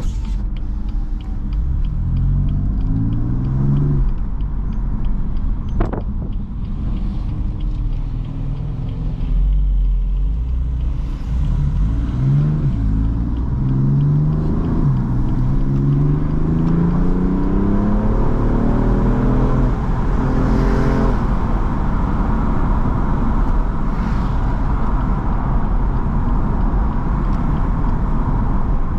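BMW M4 Competition's 3.0-litre twin-turbo inline-six pulling under acceleration, its revs climbing and dropping back with each quick upshift of the dual-clutch gearbox, several times in a row. It then settles into a steady cruise with road noise. There is a single sharp knock about six seconds in.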